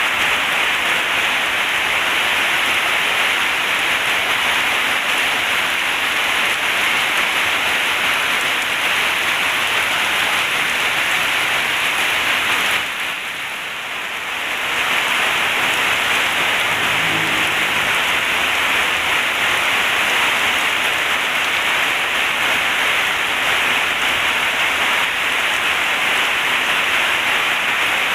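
Heavy rain falling steadily as a dense, even hiss, dipping briefly in loudness about halfway through before returning to full strength.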